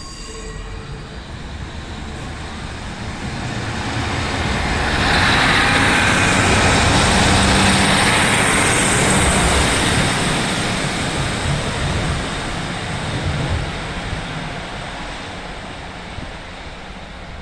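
Northern Class 150 diesel multiple unit passing close by, its diesel engines and wheels on the rails building to a peak about five seconds in, staying loud for several seconds, then slowly fading away.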